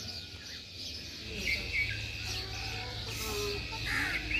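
Many caged aviary birds chirping and twittering, short overlapping calls, with a low steady rumble underneath from about a second in.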